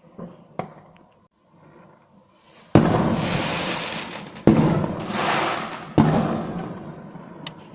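Fireworks bursting: a few faint pops in the first second, then three loud bangs about a second and a half apart, each trailing off slowly over a second or more.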